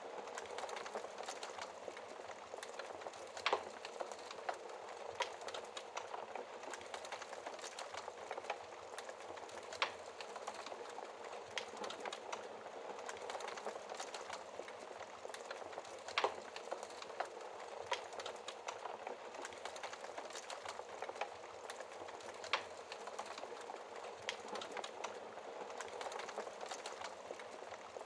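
Wood fire burning in a fireplace: a steady hiss of dense crackling with sharp pops of burning wood every few seconds.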